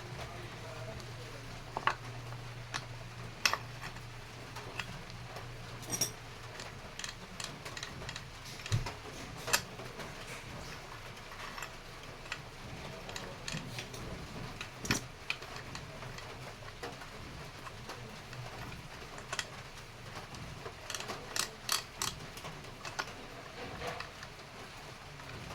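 Scattered light metallic clicks and taps of tools and motorcycle engine parts being handled during assembly, irregular, with a quick cluster of clicks near the end.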